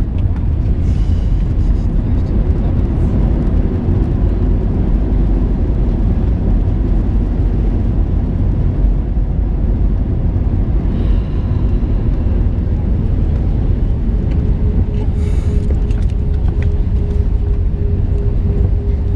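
Steady low rumble inside the cabin of an Airbus A321 rolling on the ground after landing, from its engines and airframe. A steady hum joins about two-thirds of the way through.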